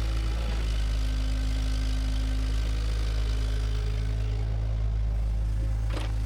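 Bulldozer's diesel engine running steadily with a deep, constant hum. A few sharp knocks come near the end.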